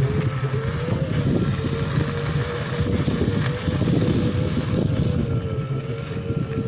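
Ola S1X Gen2 electric scooter's hub motor under way at low speed in normal mode, giving a steady whining tone that wavers slightly in pitch over a rumble of riding noise. The owner calls it a strange 'jhanan jhanan' noise that comes only between 10 and 15 km/h in normal mode, not in eco mode, and takes it for a hub motor problem.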